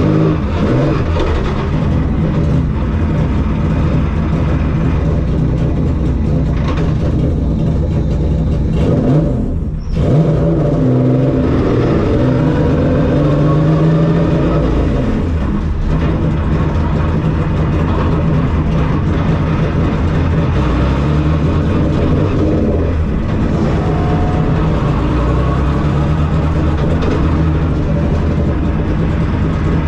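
Car engine running steadily while driving, with a brief drop in sound about ten seconds in before it picks up again.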